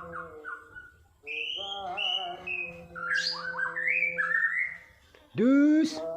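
Caged Bornean white-crowned shama (murai borneo) singing: varied whistled phrases with gliding notes, then a loud, brief rising note near the end.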